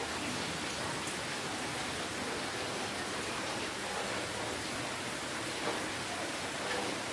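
Steady rainfall, an even hiss with faint drops pattering through it.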